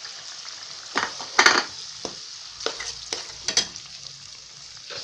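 Onion paste and ginger-garlic-green chilli paste frying in hot mustard oil in a kadhai, a steady sizzle, with about six scrapes of a spoon stirring against the pan, the loudest about one and a half seconds in.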